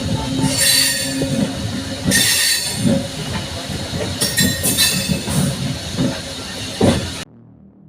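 MEMU electric multiple-unit train running on the rails: a steady low rumble and wheel clatter, with repeated bursts of high-pitched wheel screech. A sharp knock comes near the end, then the sound cuts off abruptly.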